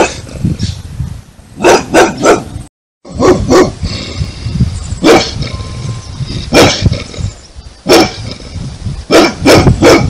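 A big boxer-type dog barking loudly and deeply, about a dozen barks in all. They come singly and in quick runs of two or three, with a brief dead break about three seconds in.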